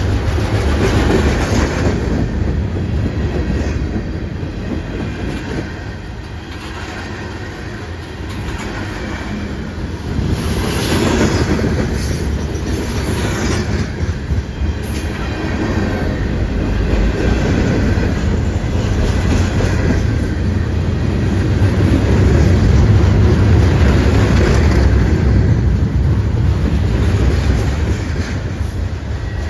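A train rolling past on the rails: a steady rumble of wheels on track with clicking over the rail joints and brief wheel squeals.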